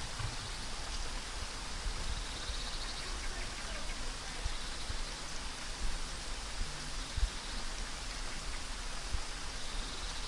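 Steady rain falling on leaves, with scattered heavier drops landing as soft low thuds. A faint, rapid bird trill comes in about two seconds in and again near the end.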